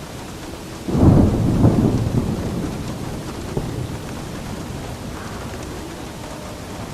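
Steady rain with a clap of thunder about a second in, its low rumble fading over the next few seconds.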